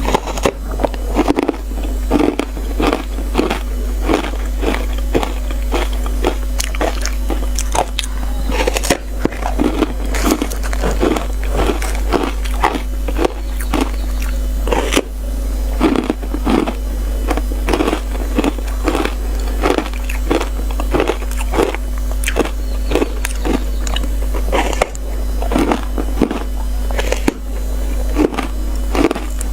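Frozen matcha ice being bitten and crunched close to the microphone, a rapid run of sharp, crackly crunches, two or three a second, over a steady low hum.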